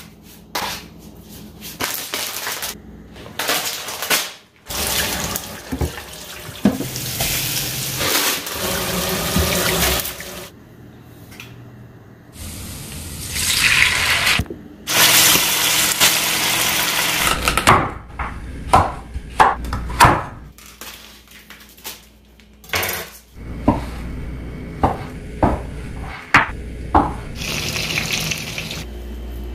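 Cooking sounds: food sizzling in a hot frying pan on an electric stove in several spells of hiss, between runs of short clinks and knocks of utensils against dishes and pans.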